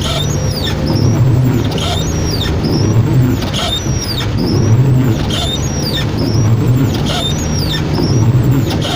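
Car running in heavy rain, with a steady low hum and a short falling squeak repeating about once a second, as of windshield wipers sweeping the glass.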